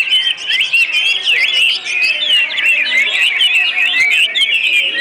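Many small caged birds chirping together: a dense, unbroken chorus of short, quick up-and-down calls overlapping one another.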